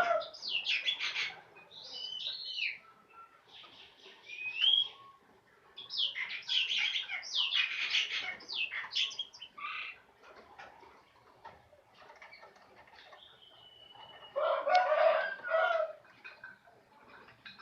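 Caged songbirds calling: bursts of loud, harsh chattering calls near the start, about six seconds in and again near the end, with a few clear whistled notes between them, one of them rising.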